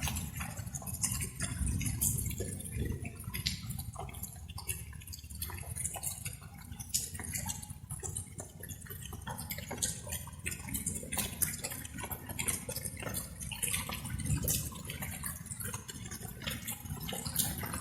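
Light rain: water drops dripping and tapping at irregular intervals, over a low steady rumble.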